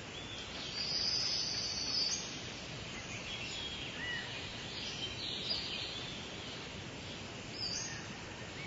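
Birds calling over a steady background hiss: a high, loud call lasting about a second and a half near the start, then scattered short chirps and whistles.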